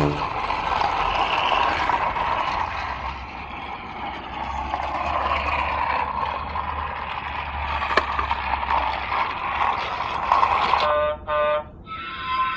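Small battery-powered toy train running along its track: a steady whirring with a low hum, one sharp click about eight seconds in, and a few short pitched electronic sounds near the end.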